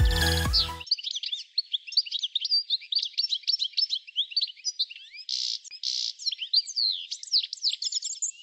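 Electronic dance music cuts off just under a second in, and songbirds chirp densely for the rest, many quick chirps and sweeping whistles overlapping, with two short buzzy notes about two thirds of the way through.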